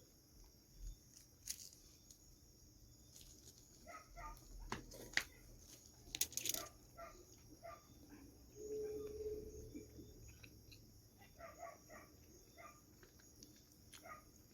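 Faint eating sounds: chewing and wet mouth smacks on roti and curry, with scattered sharp clicks.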